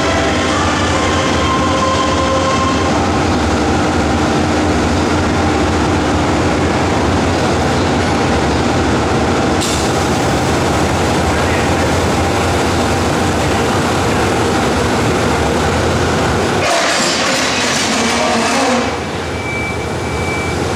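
Passenger train coaches rolling past, a steady heavy low rumble, with a loud hissing burst lasting about two seconds near the end, after which the rumble is a little quieter.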